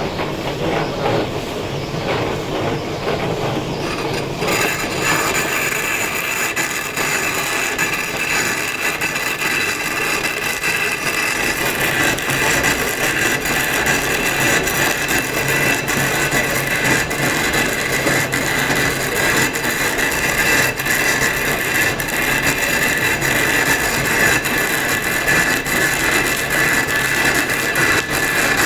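Power tool working stone, a steady whine with gritty hiss that sets in strongly about four seconds in, after a rougher rubbing sound.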